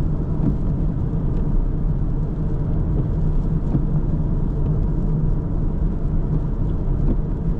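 A car driving, a steady low rumble of engine and tyre noise that keeps an even level throughout.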